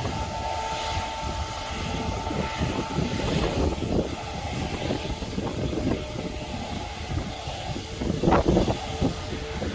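Airbus A350-1000's Rolls-Royce Trent XWB engines running during a rolling run down the runway, heard from a distance as a steady rumble with a faint whine, louder about eight seconds in.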